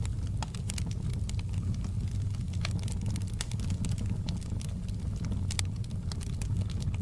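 Campfire burning: wood crackling with many sharp, irregular pops over a steady low rumble.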